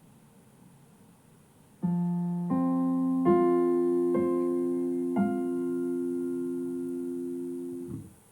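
Piano or electric keyboard playing five notes one after another to build a chord, held and slowly fading, then released all at once about eight seconds in.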